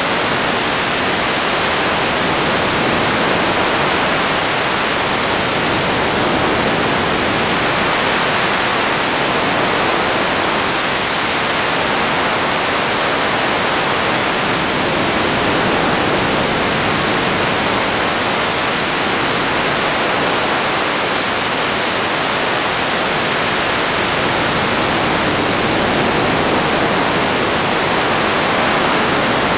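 Radio static: a steady, even hiss of noise with no tones, voices or clicks.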